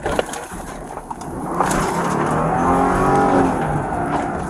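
A car engine revving up and easing back down over about two seconds, over steady road noise.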